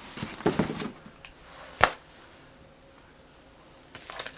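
Small desk handling sounds while working with planner stickers: a short rustle, then one sharp click a little under two seconds in, followed by quiet room tone.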